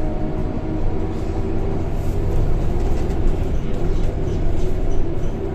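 Scania K230 bus under way, heard from on board: a steady low engine rumble with a few steady whining tones over it, the sound of the engine and its ZF automatic gearbox, and light rattles.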